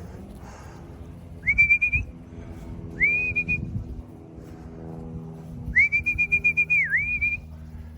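A man whistling to call racing pigeons down to the loft: three rising whistles, the last one long and warbling with a brief dip in pitch near its end.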